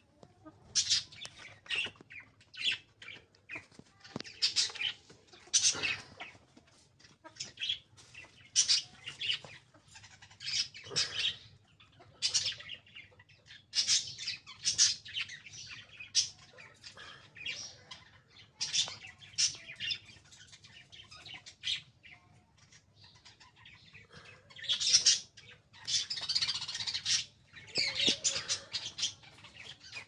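Many caged pet birds chirping and calling in short, sharp, high bursts, with a denser flurry of calls near the end.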